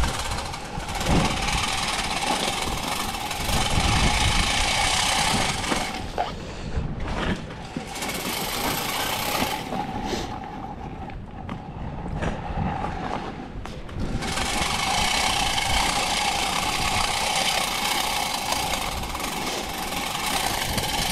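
Walk-behind salt spreader running, its spinner scattering rock salt across pavement as a steady hiss with a constant whine. The sound drops off twice, briefly about six seconds in and for several seconds from about ten seconds in.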